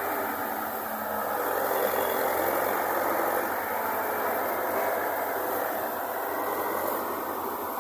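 Engine of heavy farm machinery running steadily.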